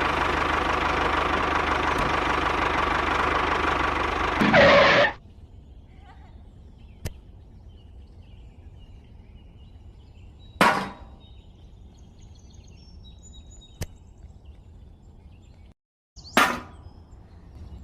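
A motor running steadily and stopping abruptly about five seconds in. After that come two short loud bursts and a couple of faint clicks.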